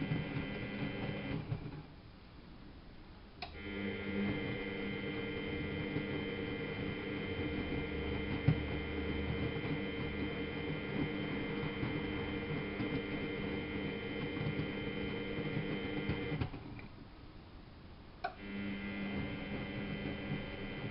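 Miele Novotronic W830 washing machine's drum motor running with a steady whine. Twice it stops for about two seconds and starts again with a click, the start-stop rhythm of the drum tumbling the wash one way and then the other. There is one sharp knock in the middle.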